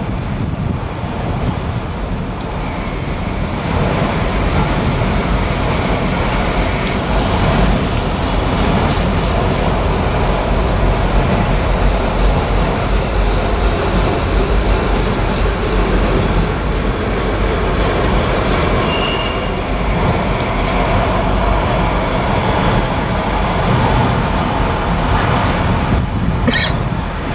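Freight train of autorack cars rolling past close by: a steady rumble and rush of steel wheels on rail, with a brief high squeal about two-thirds of the way through and another near the end.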